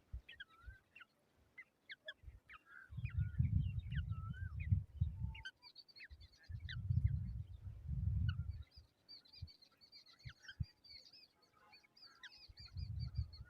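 Birds calling: short sharp notes and wavering whistles, then a fast, high twittering from about six seconds in. Bursts of low rumbling noise come and go underneath.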